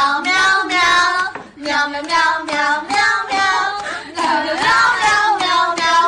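A high-pitched voice singing in short phrases, with brief breaks about a second and a half in and again about four seconds in.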